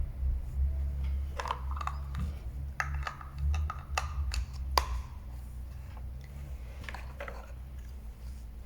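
Small clicks and light knocks of toy pieces being handled and fitted together, a dozen or so at uneven intervals, over a low rumble of handling noise that fades about five seconds in.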